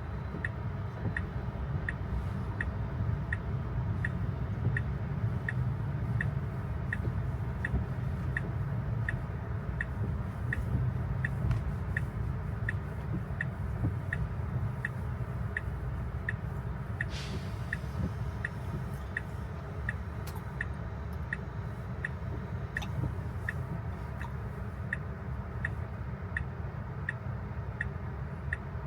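Tesla turn-signal indicator ticking steadily, about one and a half ticks a second, over the low rumble of road noise inside the cabin. A short whoosh comes a little past halfway through.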